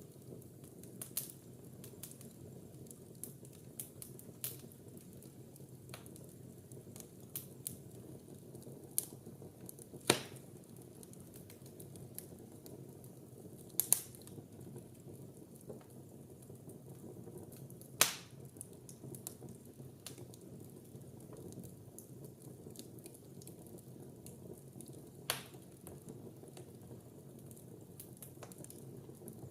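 Wood fire burning in a fireplace, crackling with scattered small snaps and a few sharper pops, the loudest about ten, fourteen and eighteen seconds in, over a steady low noise of the flames.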